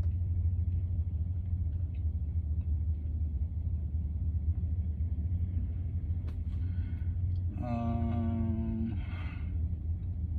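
Steady low rumble of an idling truck engine, with a single click about six seconds in and a steady tone lasting a little over a second near the end.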